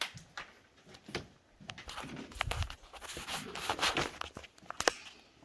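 Footsteps crunching and scuffing over debris, with rustling, in an irregular run that gets busier about two seconds in.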